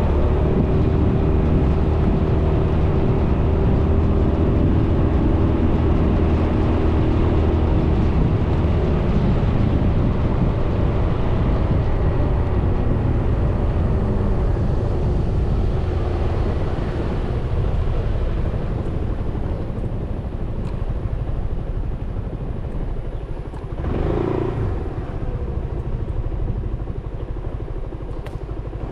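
Suzuki Burgman 400 scooter's single-cylinder engine running at road speed with road noise. It gets quieter from about halfway through as the scooter eases off, with one brief louder swell about three quarters of the way in.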